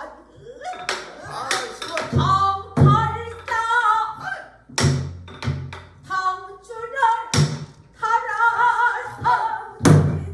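Pansori singing: a singer's voice in bending, wavering held notes, accompanied by the buk barrel drum, whose sharp strokes on the head and rim fall at irregular spacing, one every second or so.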